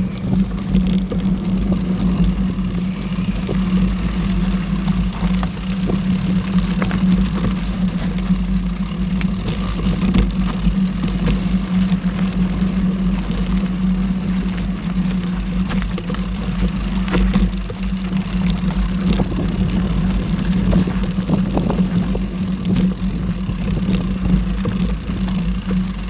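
Mountain bike riding noise picked up by the rider's camera: wind rumbling over the microphone and tyres rolling on the trail, with a steady low hum and a few light clicks and rattles.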